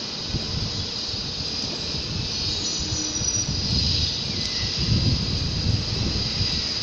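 A train rolling along the tracks: a low rumble with irregular wheel knocks that grow louder about five seconds in, over a steady high hiss, with a brief thin wheel squeal about three seconds in.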